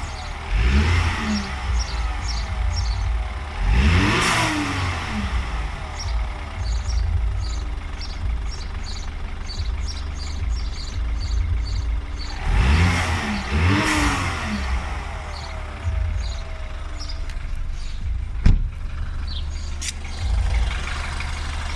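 BMW N20 2.0-litre turbocharged four-cylinder engine running and blipped up and down about four times, two of them close together, with a fast rhythmic ticking between the revs and one sharp click near the end. It makes a buzzing noise that the owner suspects comes from the oil pump or balance shaft, even after a new oil pump and timing.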